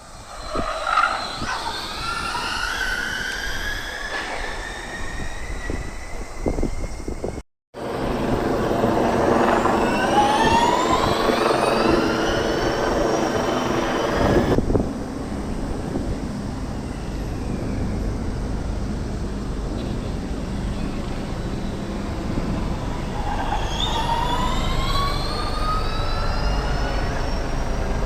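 Formula E race cars' electric motors whining as they accelerate past, each pass a high whine sweeping upward in pitch. Three passes come through, about a second in, from about eight to twelve seconds in, and near twenty-four seconds in, over a steady low hum.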